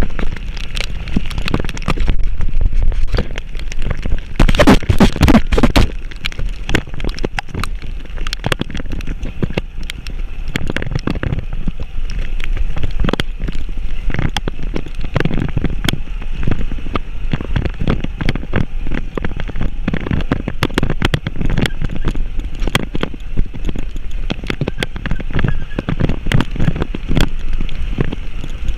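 Vehicle jolting along a rough road: a continuous, irregular clatter of knocks and rattles over steady road and engine noise.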